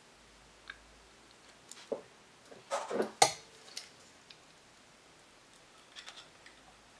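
Small parts and tools being handled: scattered light clicks, a louder cluster of knocks and rattles about three seconds in ending in one sharp knock, then a few faint ticks near the end.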